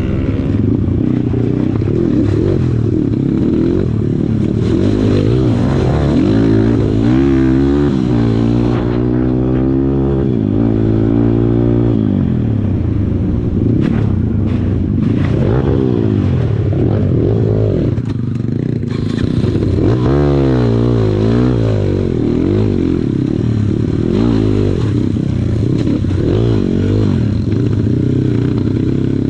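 Kawasaki KLX140 trail bike's single-cylinder four-stroke engine revving up and down over and over as the throttle is worked on rough ground, with clatter from the bike and terrain.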